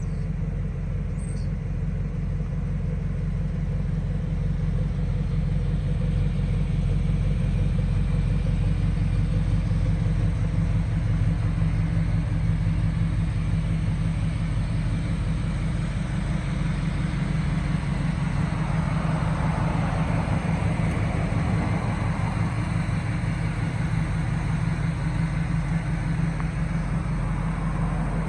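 Engine of a 1980 GMC one-ton stake truck idling steadily with a low, even rumble.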